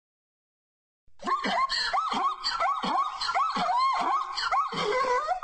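Zebra calling: a rapid series of high, barking yelps, about three a second, starting about a second in.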